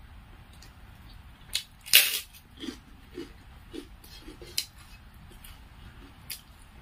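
Close-up eating sounds from a person chewing a mouthful of rice: short wet chewing smacks about every half second, with a sharp click about two seconds in and a few fainter clicks.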